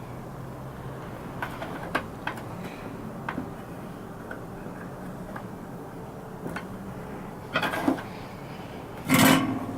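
Scattered light clicks and taps of small parts and tools being handled on a workbench, with a couple of louder knocks near the end and a short, louder scrape or rustle just before it ends.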